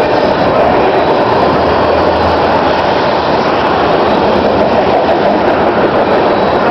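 Canadian Pacific freight train of petroleum tank cars rolling past close by: a loud, steady rumble and rush of steel wheels on rail.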